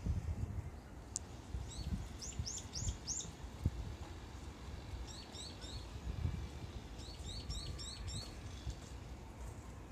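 A bird chirping in three runs of quick, high notes, the last run the fastest, over a low outdoor rumble.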